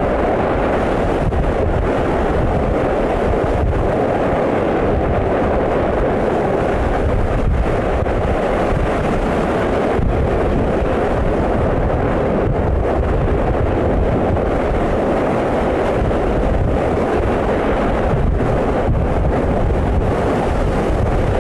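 Wind buffeting the microphone: a loud, steady rushing rumble, heaviest in the low range, with faint scattered crackles and no change in level.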